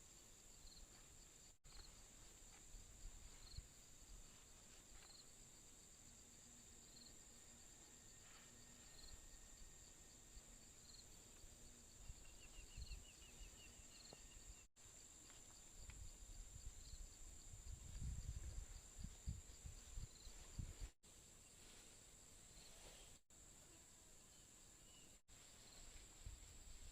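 Faint outdoor ambience of insects: a steady high drone with a soft chirp about once a second, and a short chirping trill about halfway through. Low rumbles come in during the second half.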